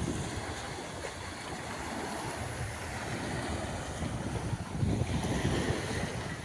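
Small waves washing onto a sandy beach, with wind buffeting the microphone in low rumbling gusts that grow stronger about halfway through.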